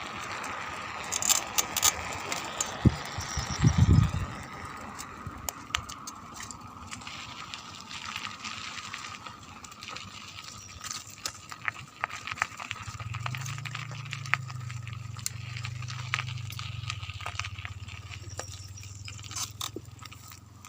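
Bicycle ride over a rough road: irregular clicks and rattles from the bike over wind and road noise, with a low steady hum joining about two thirds of the way through.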